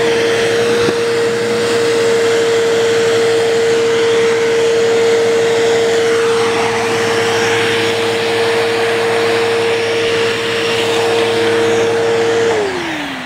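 Bissell vacuum cleaner's quarter-horsepower motor running with a steady whine while the hose extension sucks up debris. Near the end it is switched off and the whine falls as the motor spins down.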